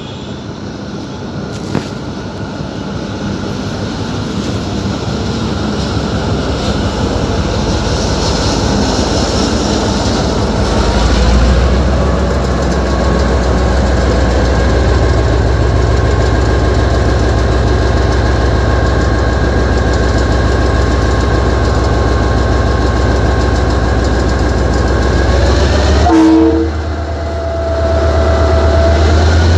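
Train running close by, growing steadily louder, with a steady low drone from about eleven seconds in that dips briefly near the end.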